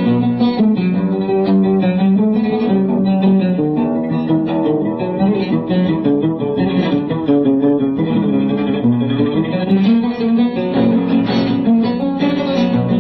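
Oud playing a melodic passage of plucked notes in Arabic classical style.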